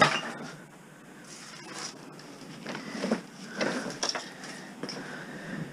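Household clutter being handled and shifted while rummaging, opening with one sharp knock followed by scattered rustling and light clatter.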